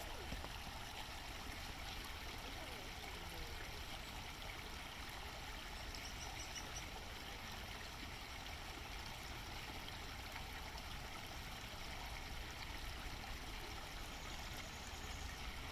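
A small brook flowing, a steady rushing of water.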